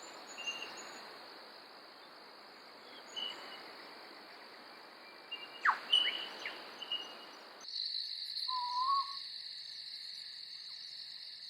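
Southern boobook owl calling at night over a steady drone of crickets and insects. There are a few short chirps and a sharp falling call about six seconds in, then a single hooting note a little after eight seconds.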